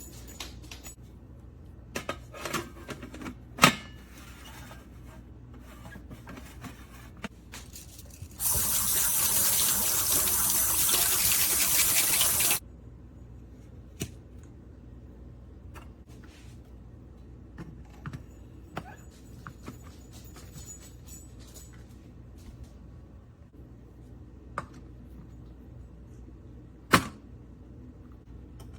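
Water running steadily for about four seconds in the middle, with scattered sharp clicks and knocks of handling before and after it.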